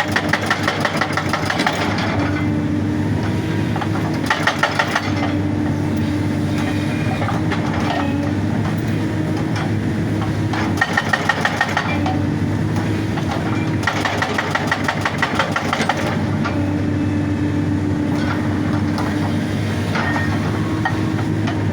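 Excavator diesel engine running steadily while a hydraulic rock breaker hammers in four short bursts of rapid blows, each lasting one to two seconds, with only the engine heard between them.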